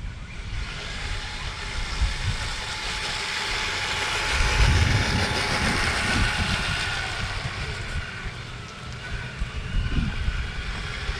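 Brushless Kyosho Blizzard RC snowcat on a 3S lipo driven flat out. The motor whine and track noise grow louder, peak about halfway through and fade again as it runs past, with wind buffeting the microphone.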